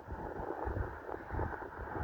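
Wind buffeting the microphone in uneven gusts, a rumbling noise with no clear squeal or tone.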